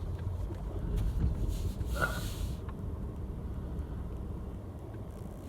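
Low, steady rumble of a vehicle being driven slowly over a rough farm track, with a brief hiss about two seconds in.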